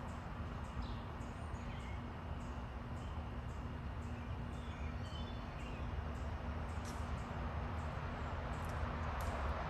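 Faint short bird chirps scattered over a steady background rumble with a low hum, the rumble growing a little louder near the end.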